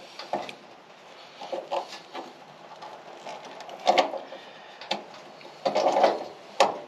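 Irregular metallic clicks, clunks and knocks of a hand rivet-nut (nut insert) tool being worked and handled while setting a threaded insert. There is a sharper knock about four seconds in and a cluster of clunks near the end.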